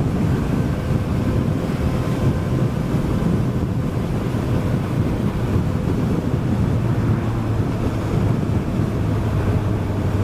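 Wind rushing over the microphone of a moving motorcycle, steady and unbroken, with the 2018 Suzuki GSX-S1000's inline-four engine running steadily underneath.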